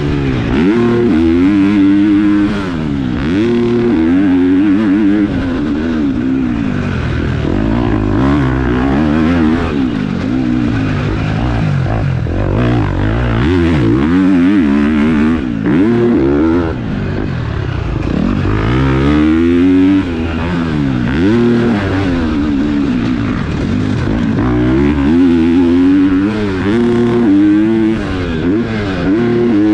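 KTM SX-F four-stroke single-cylinder motocross bike being ridden hard, the engine revving up and dropping back over and over as the throttle opens and closes and the rider shifts, with a few brief lulls where the throttle is shut.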